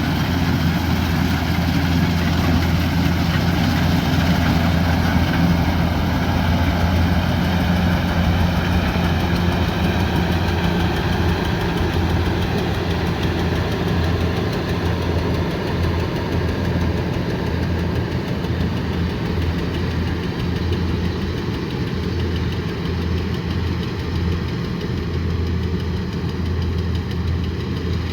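Kubota combine harvester's diesel engine running steadily, a low, even drone.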